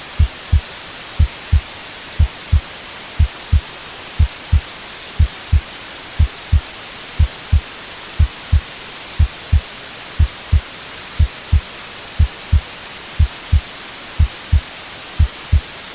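Heartbeat sound, a steady double "lub-dub" thump about once a second (about 60 beats a minute), over a continuous white-noise hiss.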